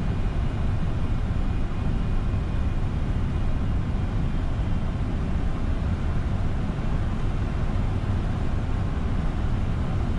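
Steady rumble and rushing airflow inside a Boeing 747 flight deck on approach, unchanging throughout with a few faint steady tones above it.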